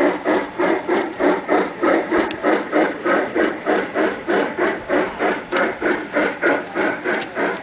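G-scale model steam locomotive running with a steady, rhythmic chuffing, about three to four chuffs a second.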